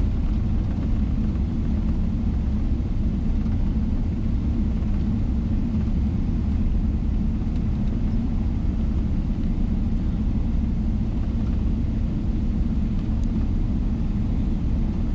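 Steady low rumble inside the cabin of a Boeing 777-300ER airliner, its engines and airflow heard from a window seat, holding an even level without rising or falling.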